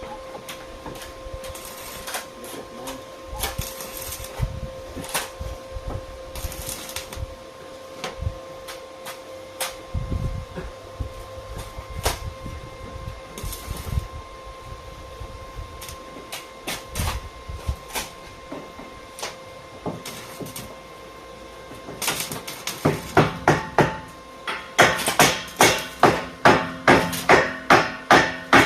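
Scattered knocks and clicks, then from about two-thirds of the way in a hammer striking steadily, about two blows a second, the blows getting louder near the end.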